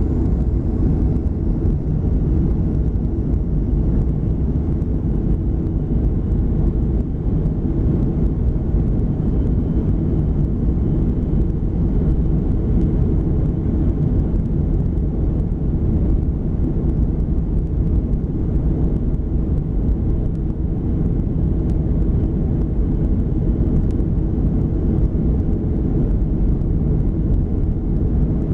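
Steady low rumble inside the cabin of a Boeing 737-400 during takeoff, from its CFM56-3 turbofan engines and the rush of air over the fuselage, with no change in pitch or level.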